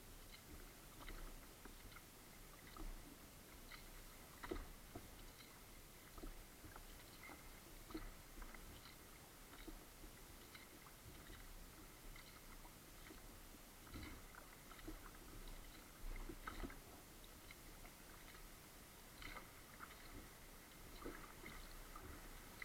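Faint sounds of kayak paddling: small irregular splashes and drips of the paddle blades entering and leaving the water, every second or two, over a low hiss.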